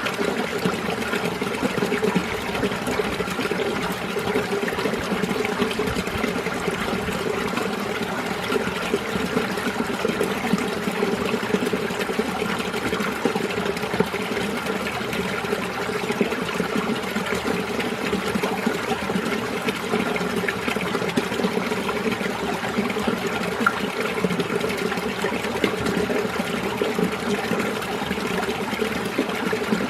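Mountain stream water flowing and burbling over rocks, a steady, continuous rush with small irregular splashes.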